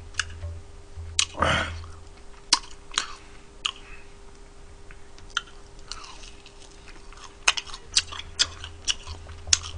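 Close-up chewing and biting of crisp fried chicken on the bone: irregular sharp crunches with one longer, louder bite about one and a half seconds in.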